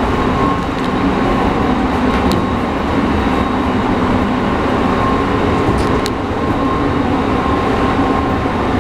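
E217 series electric train running, heard from inside the passenger car: a steady rumble of wheels and running gear with a constant hum, and a couple of sharp ticks about two and six seconds in.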